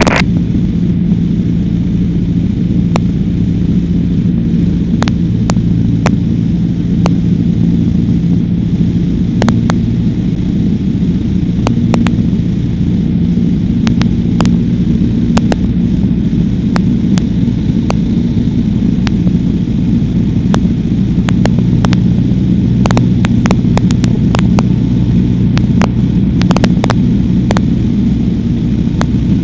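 Cessna 152's four-cylinder Lycoming engine and propeller droning steadily, heard inside the cockpit, with scattered sharp clicks over it.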